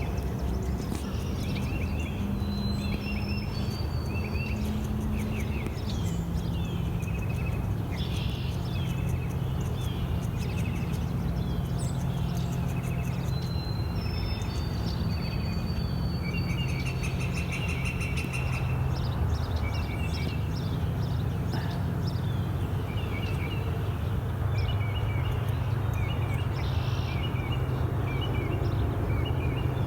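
Songbirds chirping and calling repeatedly over a steady low hum, which is the loudest part of the sound.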